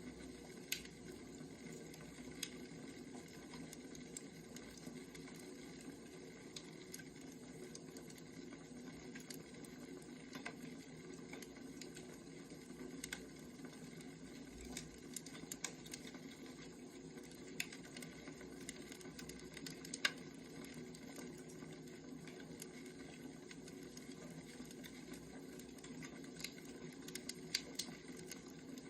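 Wood fire crackling faintly: scattered sharp pops and snaps every second or two over a steady low rumble.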